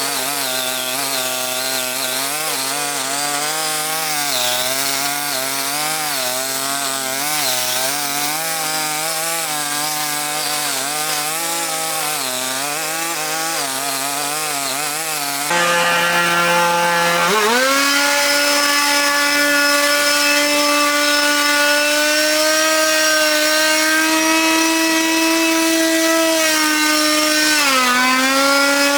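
Small petrol engine of a handheld power tool running, with its pitch wavering up and down at part throttle. About halfway through it revs up to a much higher, steady speed and holds there, dipping briefly near the end.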